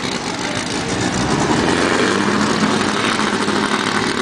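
Turbocharged VW Beetle engine running steadily at low revs close by, with a constant low hum setting in about a second and a half in.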